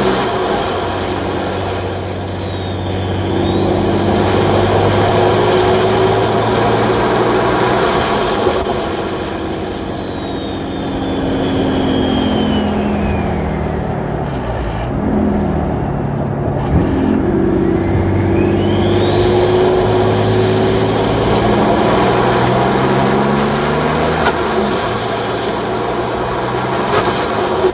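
BMW 330d's M57 straight-six diesel with an enlarged hybrid turbocharger, running at a slow cruise under the loud high turbo whistle. The whistle climbs and falls in pitch twice with the throttle, the engine note rising and falling with it, and fades briefly in the middle as the throttle comes off.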